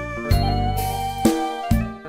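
Synthesized instrumental music from a SoundFont converted from Roland Sound Canvas VA, played to test its khlui (Thai flute) voice. A held melody note bends up slightly about half a second in, over repeating bass notes and accompaniment, with sharp note attacks about once a second.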